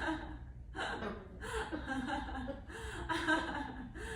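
Pet parrot vocalizing in several short runs of voice-like sound.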